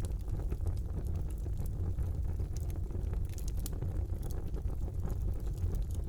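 Wood fire burning in a fireplace: a steady low rumble with scattered crackles and pops.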